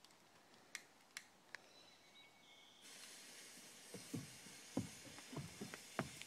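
Three sharp clicks, then a lit firework fuse starts hissing about three seconds in and keeps hissing. A run of short dull thuds comes over the hiss in the last two seconds.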